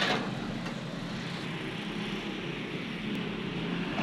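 Honda City car engine running steadily at idle.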